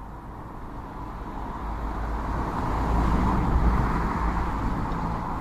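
A road vehicle passing by: a rushing engine and tyre noise that swells, peaks about three to four seconds in, and then fades.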